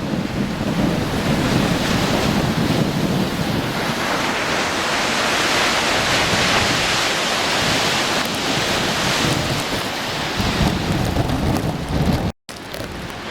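Typhoon wind buffeting the microphone over heavy storm surf breaking against the concrete wave-dissipating blocks, a steady loud rush with a deep rumble. The hiss swells in the middle. The sound drops out for an instant near the end.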